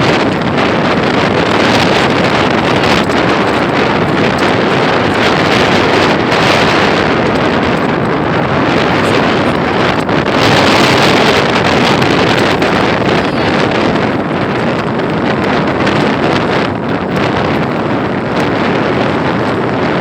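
Strong wind buffeting the microphone: a loud, steady rushing noise that swells for a couple of seconds midway.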